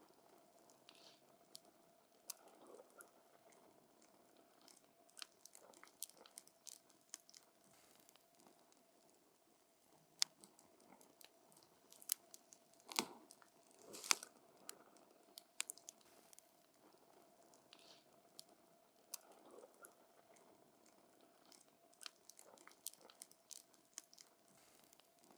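Wood campfire crackling: irregular sharp snaps and pops from the burning logs, with two louder pops about halfway through, over a faint steady tone.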